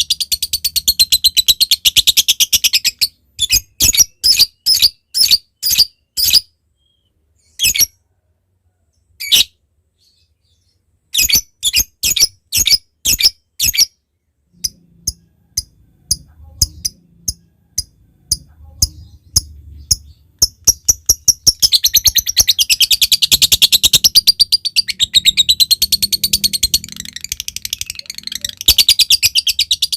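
Lovebird calling. A fast shrill chatter opens, then comes a run of separate sharp calls with silent gaps between them. A stretch of quick dry ticks follows (the 'ngetik' call), and from about two-thirds of the way in a long, rapid, unbroken chattering trill (the 'ngekek' call), which breaks off briefly near the end and starts again.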